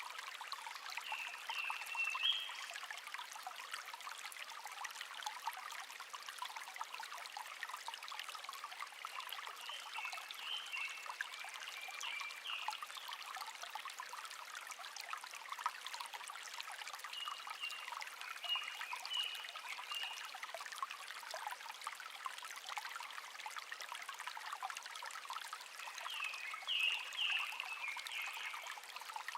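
Small stream babbling steadily, with a songbird singing four short phrases over it.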